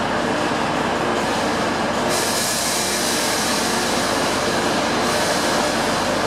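Electric and diesel multiple-unit trains standing at a station platform, giving a steady, even hum. About two seconds in, a high hiss starts abruptly and runs for about three seconds before cutting off.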